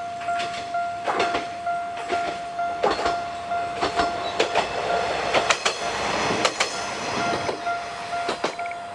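Single-car diesel railcar passing, its wheels clacking sharply and irregularly over the rail joints while its running noise swells as it goes by. A steady high tone pulses faintly behind it.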